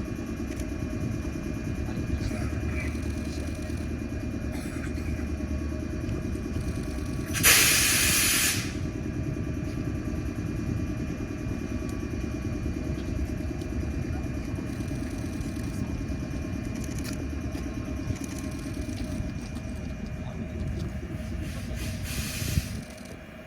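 Series 113 electric multiple unit running with a steady mechanical rumble and an even fast throb. About a third of the way in, a loud burst of compressed air hisses for about a second. Near the end a sharp click sounds and the rumble drops away.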